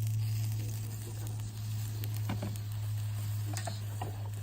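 Food sizzling in a pan over a campfire, with a few light clicks, over a steady low hum.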